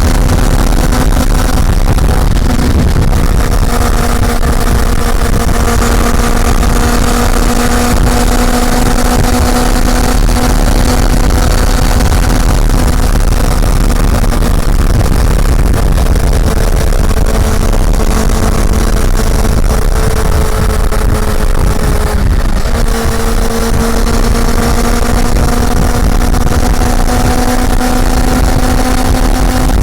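Honda CB400 Super Four's inline-four engine running at a steady cruise, its pitch slowly sagging and then climbing again after a brief break about three-quarters of the way through. Heavy wind rumble on the on-bike microphone underneath.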